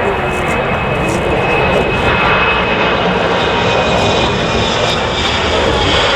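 Jet airliner's engines, a loud steady rush of noise with a faint high whine running through it.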